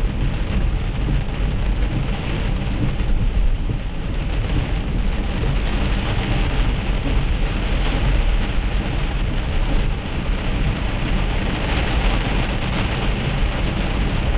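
Heavy rain pattering on the windshield and roof of a moving car, heard from inside the car over a steady low rumble of tyres on wet road.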